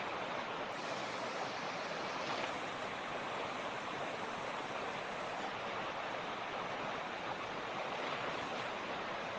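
Mountain creek flowing over rocks: a steady, unbroken rush of running water.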